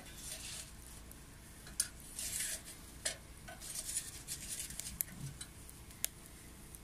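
Wet wood burning in a homemade secondary-combustion wood stove, crackling with scattered sharp pops and short bursts of hissing.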